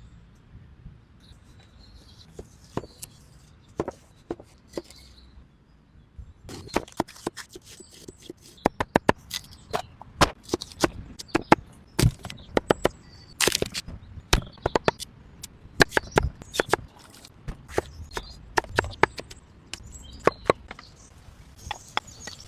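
A run of sharp, irregular clicks and knocks, a few at first and then coming thickly from about six seconds in, in uneven clusters.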